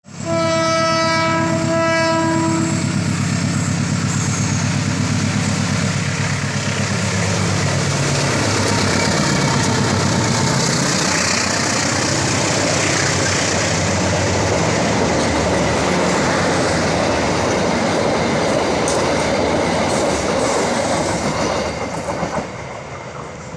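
Diesel-hauled passenger train: the locomotive gives one steady horn blast of about two and a half seconds, then its engine runs past with a falling pitch. Wheels clatter on the rails as the carriages go by, the noise dropping away near the end.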